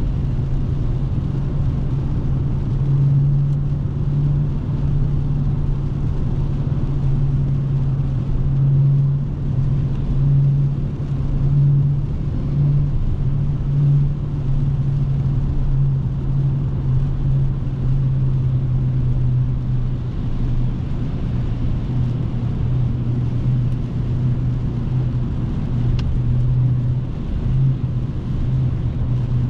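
Dodge Scat Pack's 392 (6.4-litre) HEMI V8 running at a steady cruise, with a low, even exhaust drone that wavers slightly in level but holds its pitch.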